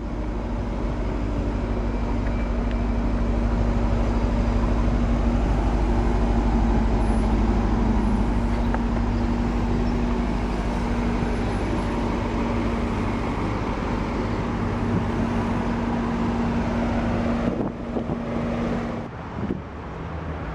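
Steady low engine rumble with a constant hum, swelling slightly and then breaking off near the end.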